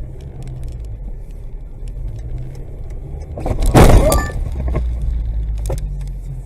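Low, steady vehicle drive noise, broken about three and a half seconds in by a loud collision: a crash impact with breaking and rattling that lasts under a second.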